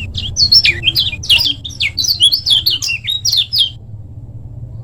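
Kecial kuning (yellow white-eye) singing a fast, tightly packed run of short, sharp chirps that sweep up and down, breaking off about three-quarters of the way in. A steady low rumble runs underneath.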